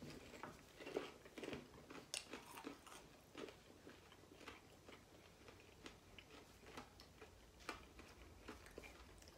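Faint, irregular crunching of a caramel-corn and waffle-cone snack mix being chewed with closed mouths, the crunches thinning out toward the end.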